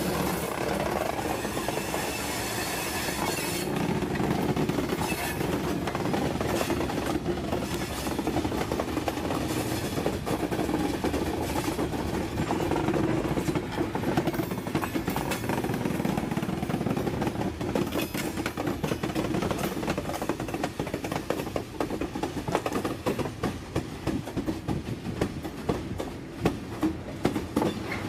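Railroad car rolling on track: a steady rumble with sharp wheel clicks over the rails, the clicks growing louder and more frequent near the end.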